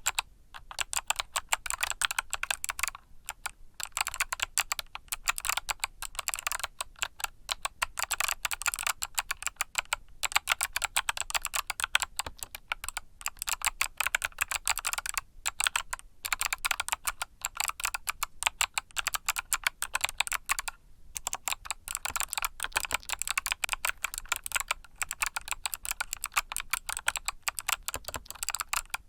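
Fast, continuous typing on a mechanical keyboard with Kailh Box Summer switches: a dense run of crisp key clicks, broken by a few short pauses.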